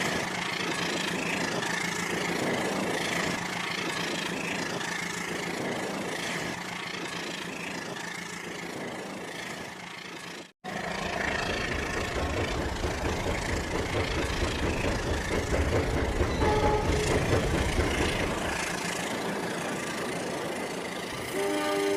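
Rail King toy train running on its track: a steady whir and rumble of the small motor and wheels, cutting out for an instant about halfway, then running on louder. A short, faint horn sound effect from the toy's sound unit comes about three quarters of the way through.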